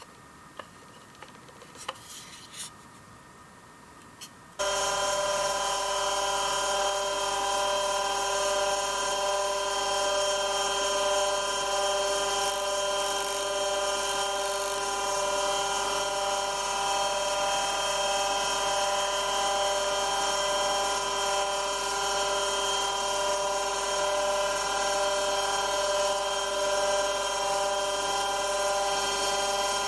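Bench grinder running steadily: a constant motor whine with several steady tones over a hiss. It starts abruptly about four and a half seconds in, after a few light clicks.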